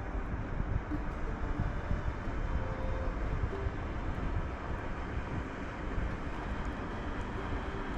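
Wind buffeting the microphone on open water, a gusty low rumble with a faint steady drone underneath.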